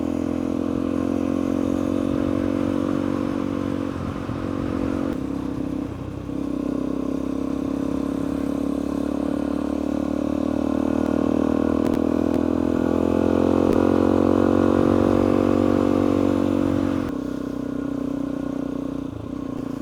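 Suzuki DR-Z400E's single-cylinder four-stroke engine running under way on a climb. Its pitch dips briefly about five seconds in, then climbs slowly before dropping at about seventeen seconds as the revs fall.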